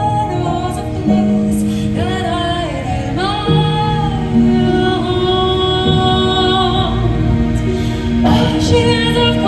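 Live symphonic metal band music with sung vocals holding long, gliding notes over the band.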